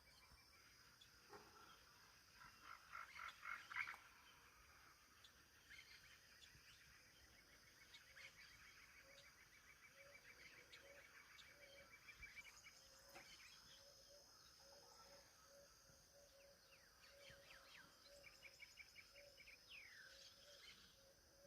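Faint wild ambience: several birds chirping and trilling, the loudest a fast trill about three seconds in, over a steady high insect whine and a soft low note repeating a few times a second.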